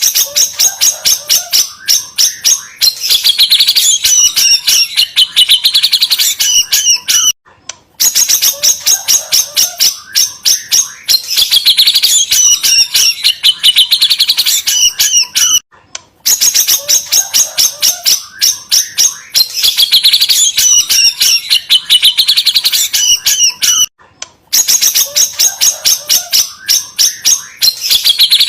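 White-rumped shama (murai batu) song played from a recording: rapid chattering clicks and high trills. The same eight-second stretch repeats over and over with a short break between repeats, a looped provocation track meant to stir a caged shama.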